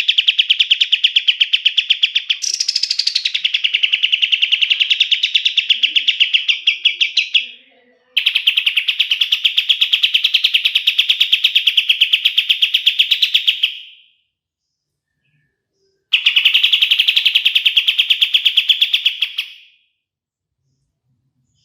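Kapas tembak song: long runs of rapid, evenly repeated rattling notes. There are three bursts of several seconds each, the first changing pattern slightly a couple of seconds in, and each tails off before a pause.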